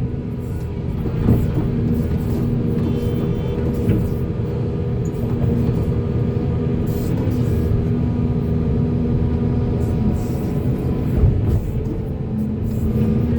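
Volvo excavator's diesel engine running steadily under work, with a few short knocks.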